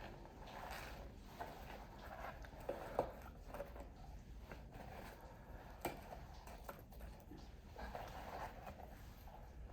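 Faint rustling with scattered light clicks and taps, a sharper click about three seconds in.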